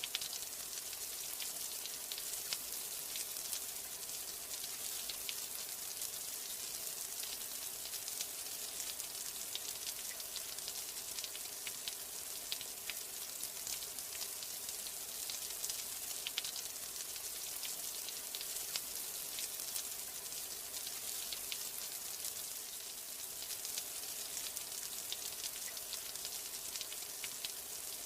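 Steady rain: a dense, even patter of many drops over a high hiss, with no letup.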